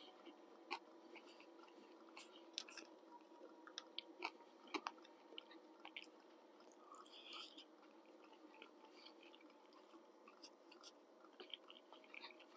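Faint chewing of a mouthful of food, with scattered light clicks of a fork picking at a plate, over a faint steady hum.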